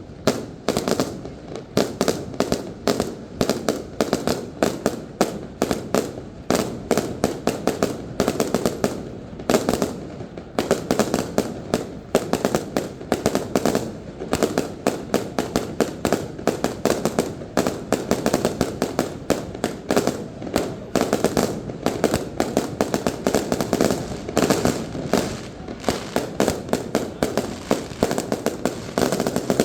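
Aerial fireworks exploding in rapid succession, a dense run of sharp bangs and crackles, many per second, without a break.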